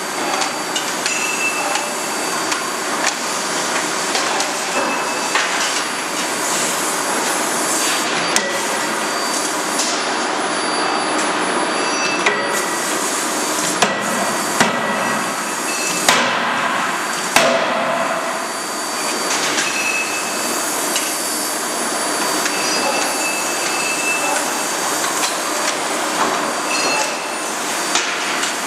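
CNC hydraulic die forging hammer at work: a continuous metallic clatter and hiss of the running hammer line, with a few sharper, louder blows near the middle.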